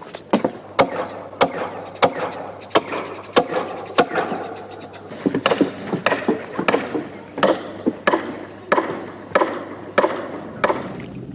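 Hammer blows on wooden boards: a run of sharp knocks, roughly one and a half a second, coming faster for a while around the middle.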